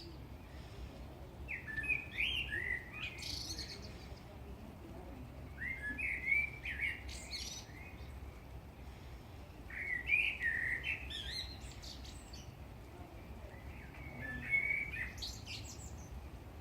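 Eurasian blackbird singing four separate song phrases, about four seconds apart. Each phrase opens with a low fluting warble and ends in a higher, squeaky twitter.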